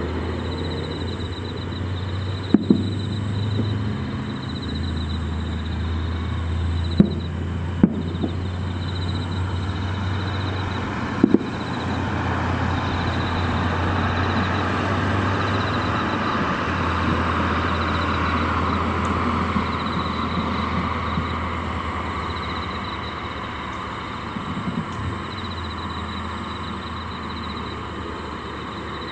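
Distant aerial firework shells bursting as short, sharp reports at irregular intervals, a few of them in quick pairs and some softer pops near the end. Under them runs a steady low hum and background hiss.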